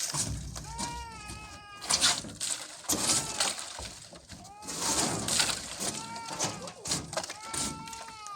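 Goats bleating, about five wavering calls a second or two apart, with rustling and cracking noises between them.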